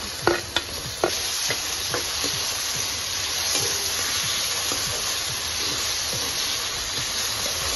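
Onions, green chillies and freshly added potato cubes sizzling in hot oil in a kadai while being stirred with a spatula. A steady frying hiss, with sharp clicks of the spatula against the pan, most of them in the first two seconds.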